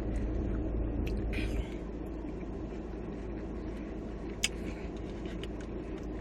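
Steady low rumble of background noise, dropping a little about one and a half seconds in, with one sharp click midway.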